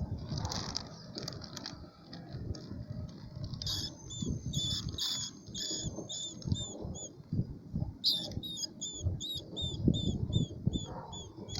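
A small animal squeaking in rapid series of short, high chirps, about three or four a second, in two runs, over scuffling and knocking.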